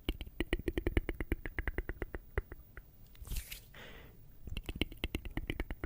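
Close-miked ASMR tongue clicking: a fast run of sharp mouth clicks, several a second, broken a little past halfway by a brief soft hiss, then clicking again.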